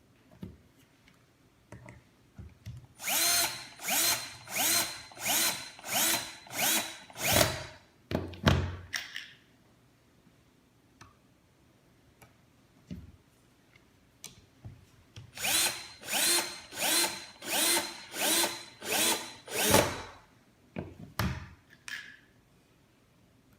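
Electric drill driving screws into a wooden drawer in short pulses: two runs of about seven quick whirring bursts, each spinning up briefly, several seconds apart.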